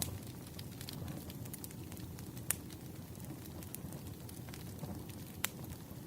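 Firewood burning: a steady low rumble with scattered small crackles, and two sharper pops, about two and a half seconds in and again near the end.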